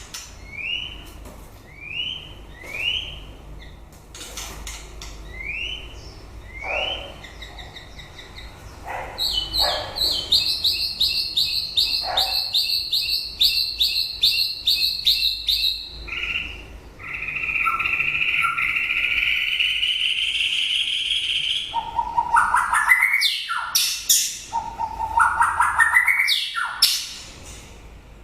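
White-rumped shama singing: short upward-sweeping whistles about once a second, then a fast run of repeated notes, a long rising whistle, and stepped rising phrases near the end.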